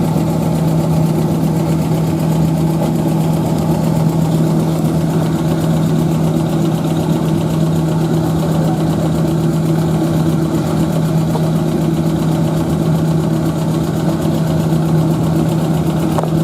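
Machinery running steadily: a continuous drone with a strong, unchanging low hum.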